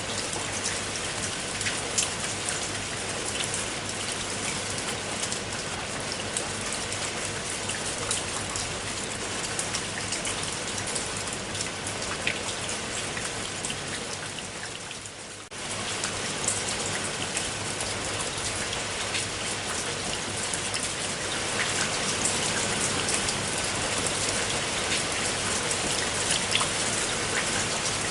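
Steady rain falling, with many individual drops striking a surface heard through the hiss. About fifteen seconds in it fades briefly, then comes straight back at full level.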